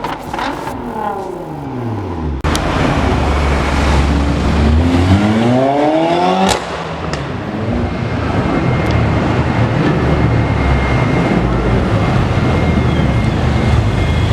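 Mercedes-AMG A45 with an iPE exhaust, its turbocharged 2.0-litre four-cylinder engine note falling in pitch at first. A couple of seconds in, a sudden cut to a louder rumble. The engine then climbs in pitch under acceleration for about two seconds before another cut to a steady, loud exhaust rumble.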